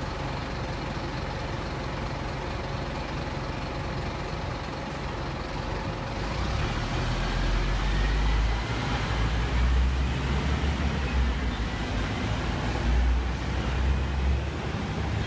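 Scania N230UB city bus engine running steadily, then about six seconds in it grows louder into a deep rumble with a rising whine as the bus pulls away.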